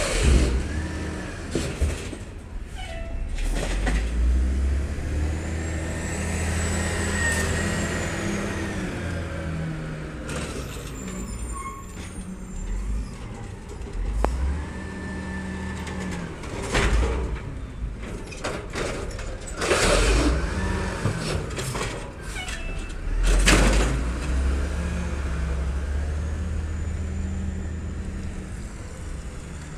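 Garbage truck's diesel engine running and revving up and down several times as it works its hydraulics. Several sudden hisses and clanks are heard, including one at the start and a cluster a little past the middle, with air-brake release among them.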